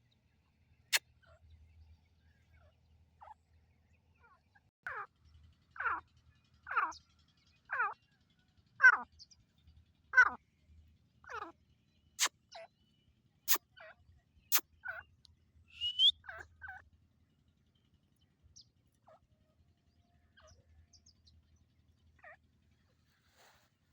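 Grey francolin (teetar) calling: a run of about seven falling notes, roughly one a second, followed by a few shorter notes and a brief rising note. Several sharp clicks are scattered among the calls.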